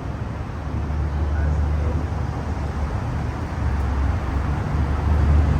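Steady low rumble of a car's engine and road noise, heard from inside the car, growing a little louder toward the end.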